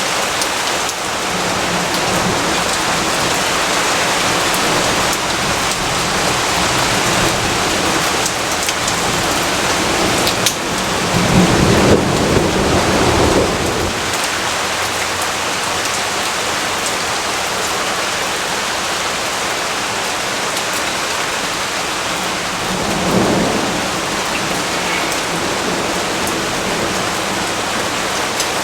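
Steady heavy rain falling, with a low rumble of thunder swelling for about three seconds a third of the way in and a shorter, fainter rumble later.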